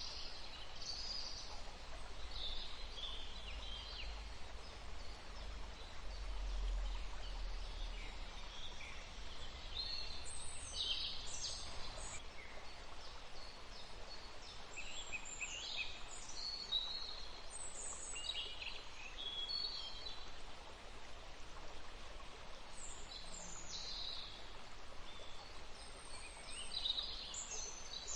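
Several small songbirds chirping and trilling in short, quick phrases, overlapping throughout, over a steady background hiss.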